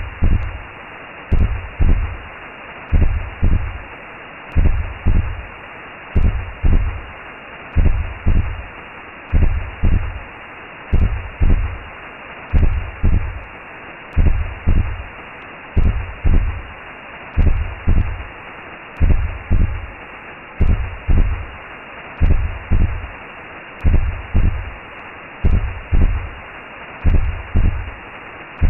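Recreated womb sound: a slow, low double heartbeat thump about every second and a half over a steady whooshing hiss, like a mother's heartbeat and blood flow heard from inside the womb.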